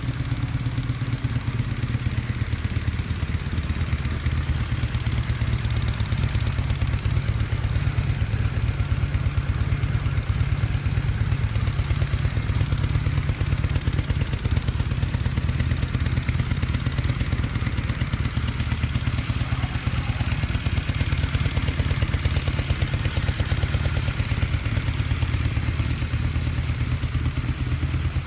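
Honda Shadow VT600CD's 583 cc V-twin engine idling steadily, with a low even throb.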